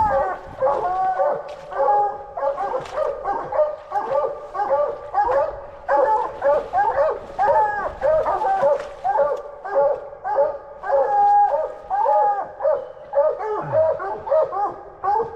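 Two coonhounds barking steadily and fast, their barks overlapping at about two or three a second.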